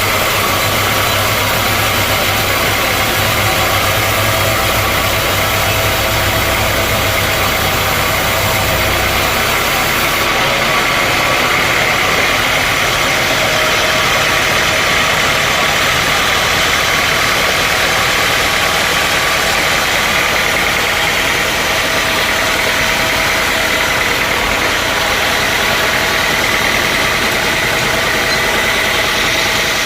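Sawmill machinery running steadily with a loud engine-like drone. About ten seconds in, the deep hum and a high hiss drop away while the rest of the noise carries on.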